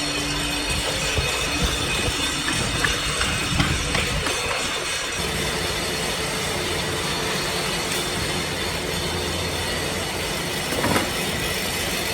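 Steady machine noise running without pause, with a low hum and a few faint ticks.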